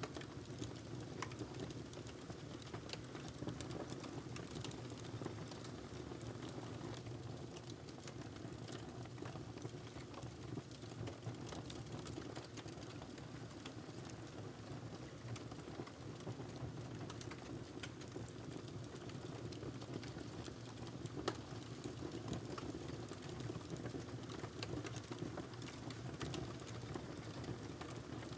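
Wood fire crackling in a fireplace: a steady low rush of flame with frequent small pops and snaps, one sharper pop about two-thirds of the way through.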